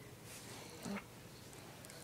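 A quiet room with one brief, faint sound from a pet dog a little under a second in.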